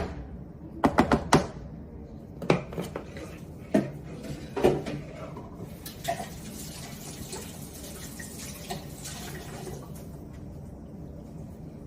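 Kitchen utensils knocking and clinking against dishes: a quick run of sharp knocks about a second in, then a few single knocks over the next few seconds, followed by a softer steady hiss.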